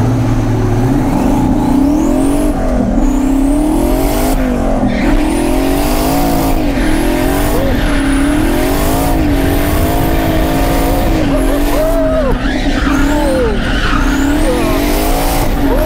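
Twin-turbo 5.3 L V8 of a Corvette C6 drift car heard from inside the cabin, revving up and falling back again and again through a drift run, with tire squeal.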